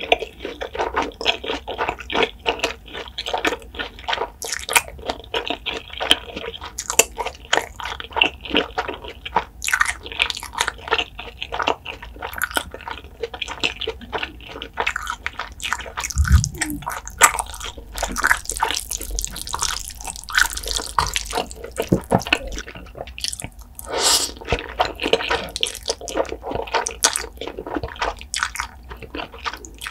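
Close-miked wet chewing: a dense run of small sticky clicks and smacks from a mouthful of food, with a hissier stretch a little past halfway. Near the end, saucy ramen noodles are slurped in.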